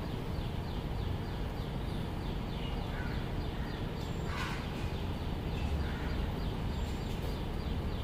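Birds calling: a rapid run of short, high, falling chirps, about four a second, with a few louder calls about three, four and a half and six seconds in.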